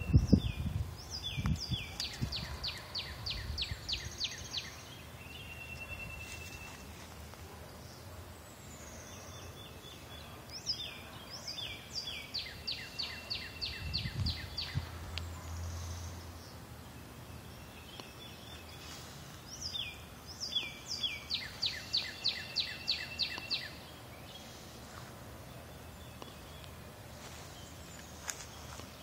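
A songbird singing the same loud phrase over and over, about every nine seconds: a few quick slurred notes, then a fast run of about ten sharp repeated notes. A fourth phrase begins near the end.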